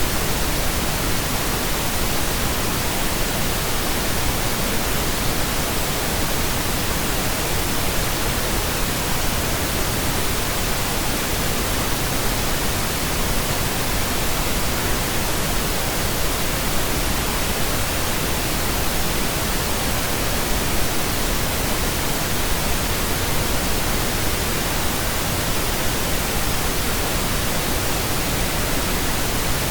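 Steady pink noise: a constant, even hiss, unchanging in level.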